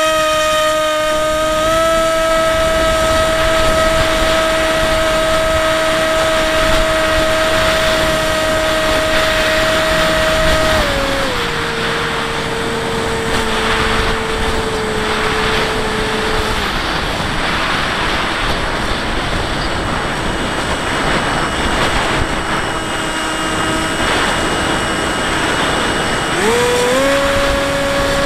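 Bixler 1.1 RC plane's electric motor and propeller whining at a steady pitch after a quick throttle-up at the start, stepping down to a lower pitch about 11 seconds in and dying away around 17 seconds, leaving a rushing wind noise, then throttling back up near the end.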